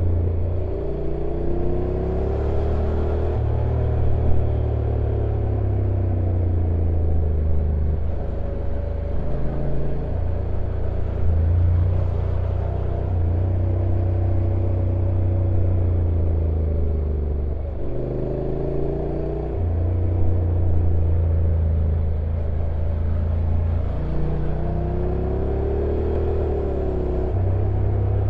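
Honda NC750X parallel-twin engine running on a downhill ride, with a low steady note that jumps to a new pitch several times as the dual-clutch gearbox changes gear, and rising and falling engine tones between the jumps.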